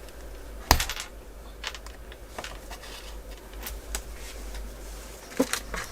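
Scattered small clicks and taps of hand repair tools handled against a tablet and work surface, with one sharper click about three-quarters of a second in and a few quick ticks near the end.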